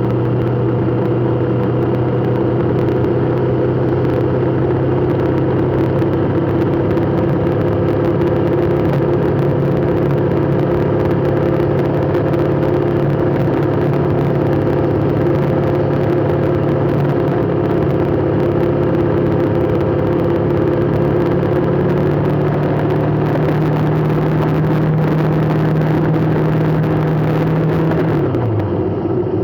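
Vehicle engine running at a steady speed with a constant hum, its pitch falling near the end as it slows.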